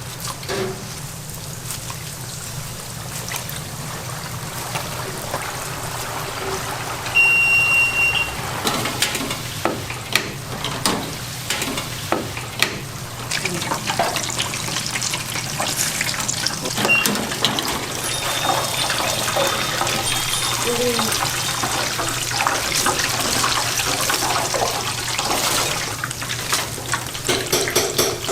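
Snack-shop kitchen noise: a steady hum under a hiss, with frequent clicks and clatter and a short high beep about seven seconds in.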